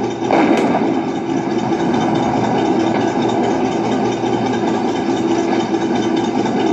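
RC Tiger tank model's sound unit playing a recorded Maybach tank engine running at idle, steady and even, with one brief click about half a second in.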